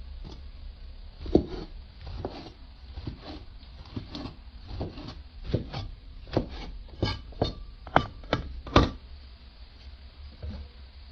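A run of irregular knocks and clatter, about a dozen sharp strikes at uneven intervals. The loudest come about a second in and near the end.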